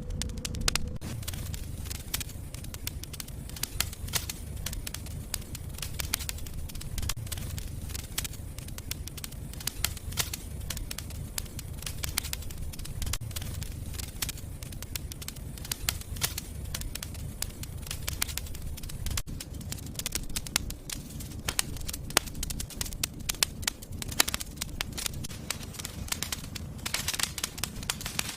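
Wood fire in a fireplace crackling, with many sharp irregular pops and snaps over a low steady rumble of the flames.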